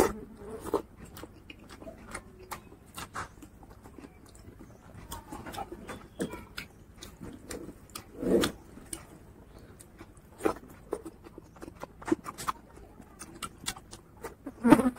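Close-miked eating by hand: irregular wet chewing and lip smacks, with soft squelches of fingers mixing rice and curry. There are louder bursts about eight seconds in and again near the end.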